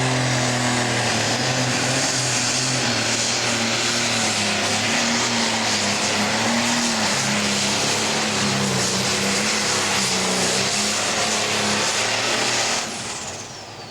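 Pro stock pulling tractor's turbocharged diesel engine running flat out under load, loud and steady, its pitch wavering a little as it pulls. The sound drops away sharply near the end.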